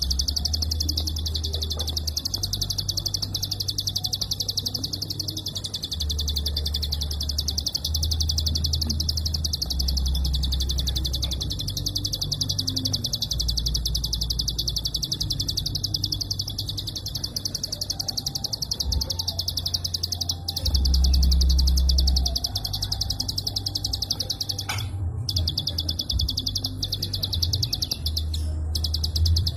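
Prinia (prenjak) giving its rapid clicking call in long, dense runs: a fast, almost unbroken train of high ticks, broken only briefly twice near the end, over a low background rumble.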